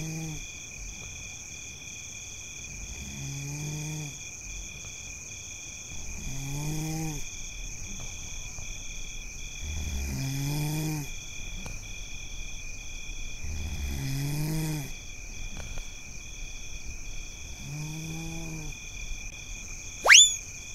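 Slow snoring on the soundtrack, one snore about every three and a half seconds, over a steady chirping of crickets. Near the end a quick rising whistle cuts in.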